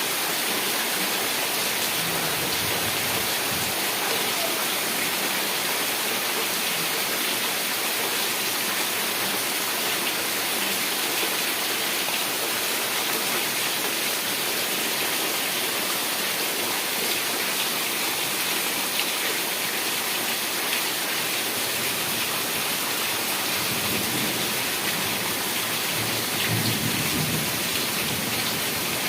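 Heavy rain falling steadily, a dense even hiss. Near the end, low rumbles of thunder swell under it.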